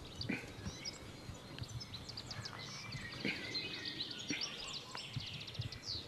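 Small songbirds chirping and singing, with a fast trill about five seconds in. A couple of soft knocks come from hands working the rubber tubing and string.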